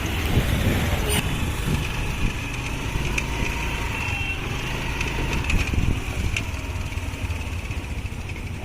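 Road traffic: motor vehicle engines running as a steady low rumble, with a faint steady tone a little under four seconds in.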